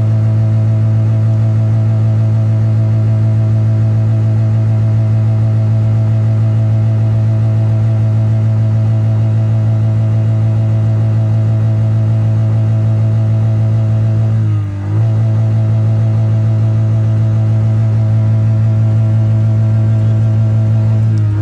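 Car engine held at a steady high rev by the accelerator pedal, with one brief dip in revs about 15 seconds in before it climbs back up.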